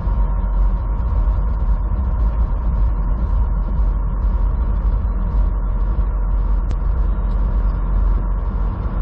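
Semi truck's engine and road noise heard from inside the cab while driving: a steady, heavy low rumble with a constant hum on top.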